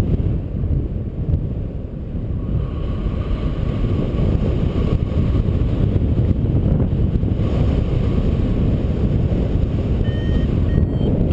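Strong wind buffeting the microphone in flight, a loud steady rumble. Near the end a flight variometer starts giving short beeps that climb in pitch, the sign of the glider going up.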